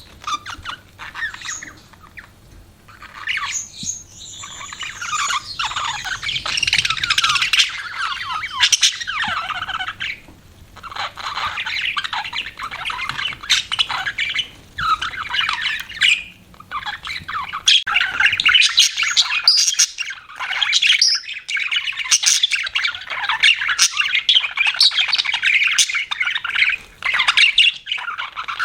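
Budgerigars chirping and chattering: a dense, warbling babble of quick chirps and squawks, broken by a few short pauses.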